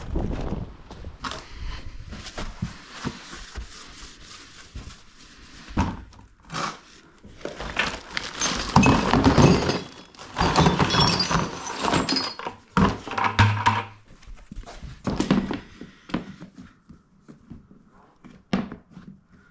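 Household and workshop supplies being handled in a small room: irregular thunks, knocks and clatter as items and containers are picked up, dropped in and set down, heaviest in the middle stretch and thinning out near the end.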